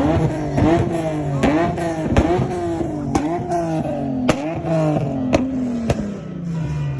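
A car engine revved over and over in quick blips, each rev rising sharply and falling back, with several sharp pops or cracks among them.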